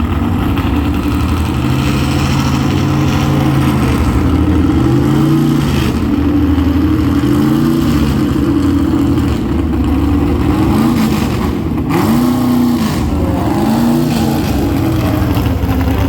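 A pulling truck's engine revving up and down several times, its pitch rising and falling in repeated swells over a steady low running note.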